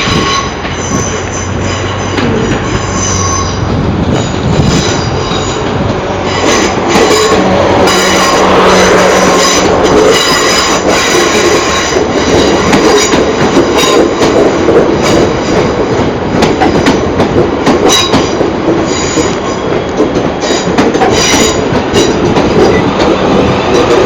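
A passenger train running along the platform road, its wheels squealing on the rails, with a steady high whine and many sharp clicks as wheels cross rail joints.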